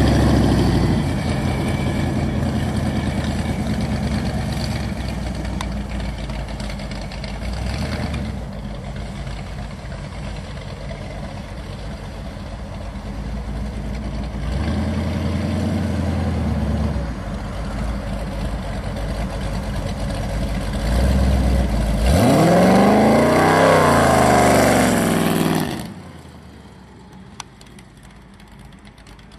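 Big motorcycle engine on a custom trike idling, then revved hard about three quarters of the way in, the pitch rising and falling for a few seconds before the sound drops away near the end.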